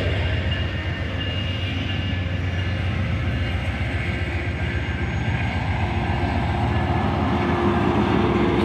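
Passenger cars of an Amtrak train rolling past close by: a steady rumble of steel wheels on the rails.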